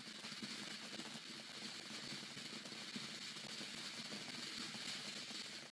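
Garden firework fountain spraying with a steady hiss and a few faint crackles.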